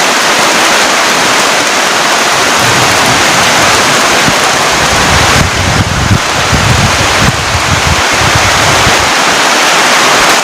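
Heavy rain pouring steadily. From about five to nine seconds in, a low rumbling joins it.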